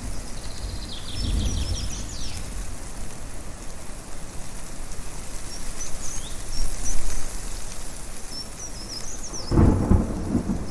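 Thunder rumbling, with a louder low crash near the end, over a steady rushing of wind and rain, while small birds chirp over and over.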